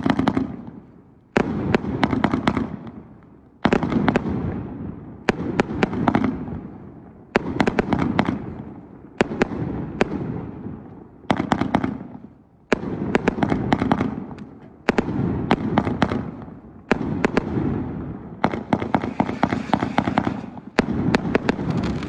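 Fireworks going off in a rapid series of volleys, about one every two seconds. Each volley is a cluster of sharp bangs followed by a fading rumble and crackle.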